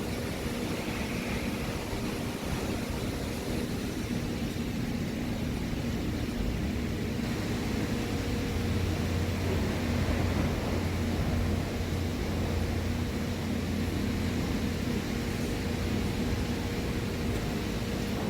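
Steady machine hum with a low drone, growing somewhat louder for a few seconds in the middle.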